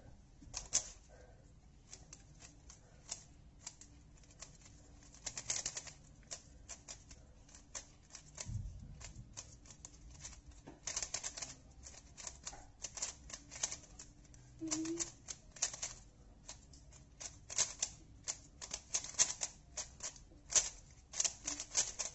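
A plastic speed cube being solved fast: quick runs of clicks as its layers are turned, with short pauses between runs.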